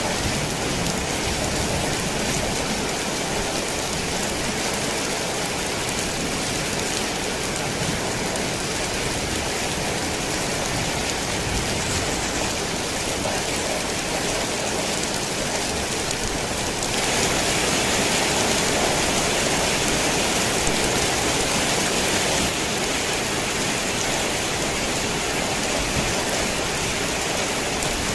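Heavy rain pelting a tin roof in a steady hiss, growing louder for about five seconds in the second half.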